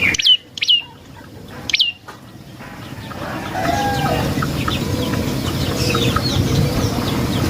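Three sharp, high chirps sliding downward in the first two seconds, typical of a prenjak's call, followed by a busy background of rural bird calls with domestic chickens clucking.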